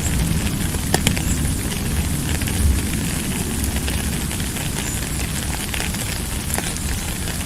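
Steady rain, a dense hiss of many small drop ticks over a deep, continuous low rumble, with one sharper tick about a second in.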